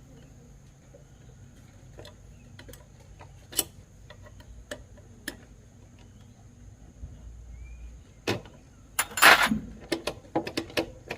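Scattered light clicks and taps of small parts and tools being handled, over a low steady hum, with a louder clatter about nine seconds in.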